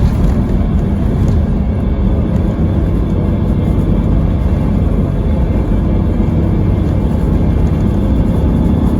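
A Scania K320IB4 coach's engine and drivetrain running steadily under way, heard from on board, with road noise mixed in.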